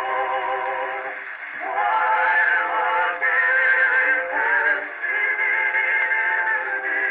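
Edison Amberola 30 cylinder phonograph playing a Blue Amberol cylinder: a man singing a song with accompaniment, thin-sounding with no deep bass and little treble, with a short breath between phrases about a second in.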